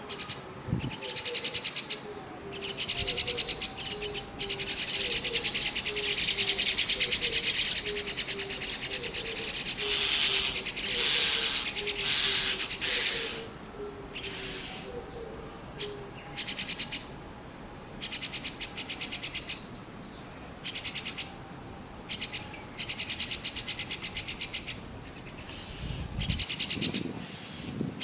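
White-cheeked starling nestlings giving harsh, rapid begging calls in repeated bursts, the sign of chicks waiting to be fed at the nest. A thin, steady high whine runs through the middle stretch.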